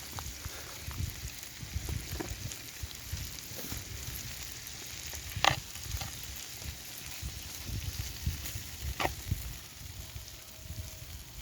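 Marinated chicken and rice frying in a pan over a campfire, a steady sizzle, with two sharp knocks of a utensil against the pan partway through.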